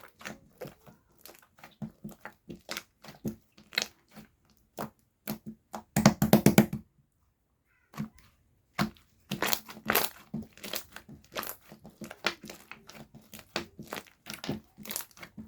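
Slime being squeezed and worked by hand, giving a run of quick crackling, clicking pops. A dense burst of crackles comes about six seconds in, then a short pause before the clicking resumes.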